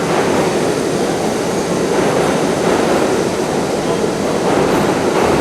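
Subway train running, a loud steady rumble and rattle of wheels on track.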